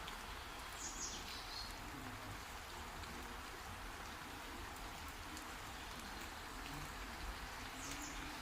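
Steady rain falling, with scattered drop ticks and a short high chirp about a second in and again near the end.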